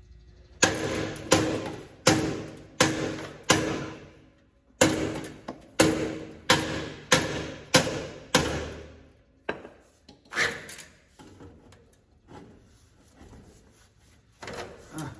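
Hammer blows, about a dozen in two quick runs at roughly one to two a second, each with a short metallic ring, driving a new bearing into place on a combine header; a few lighter knocks follow.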